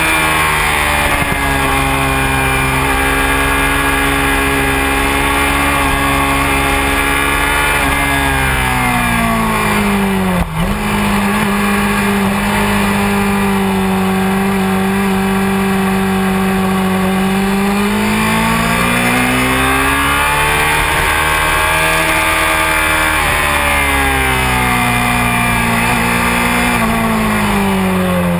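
Honda CBR600F4i sport bike's inline-four engine running hard on track, recorded onboard. The engine note drops sharply about ten seconds in, with a brief click, as the rider slows and shifts down. It then holds steady, climbs again as he accelerates, and falls once more near the end. Wind rushes over the microphone.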